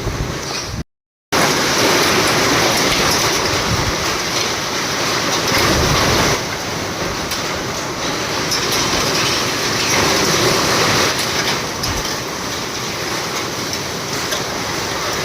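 Heavy rain and wind of a sudden storm: a loud, steady rushing noise, cut off completely for a moment about a second in, then easing slightly about six seconds in.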